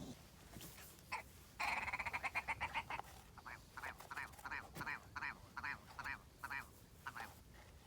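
A bird calling: a fast rattling run of notes, then a slower series of separate calls that trails off.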